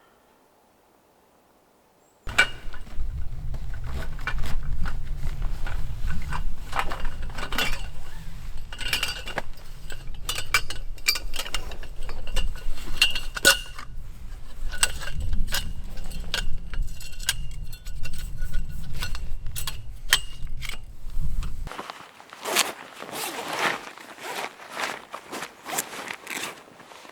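Small hard items clinking and rattling against each other over a steady low rumble. The rumble cuts off suddenly about 22 seconds in, leaving a run of quick clicks and crunches.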